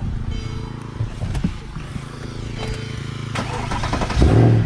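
Turbocharged RB-series straight-six in a Datsun 240Z idling with a steady, lumpy beat, swelling louder briefly about four seconds in.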